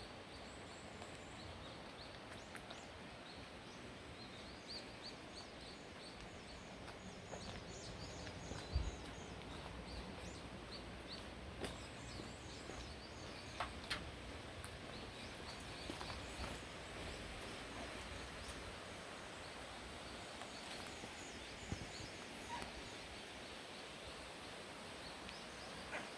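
Faint outdoor background with small birds chirping in short, high, repeated notes, a few light clicks and a soft thump about nine seconds in.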